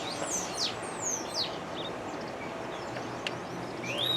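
Wild birds chirping and calling: several quick, high, falling whistles, and a rising-then-falling call near the end. There is a steady background hiss, and one sharp click about three seconds in.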